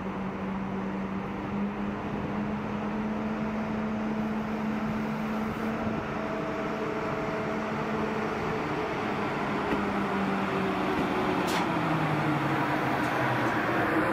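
Train running in a station: a steady rumble with humming motor tones, one tone dropping in pitch about twelve seconds in, growing louder toward the end.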